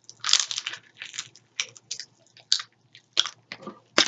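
Pop Rocks candy popping and crackling inside a mouth: a dozen or so irregular sharp pops and short crackles.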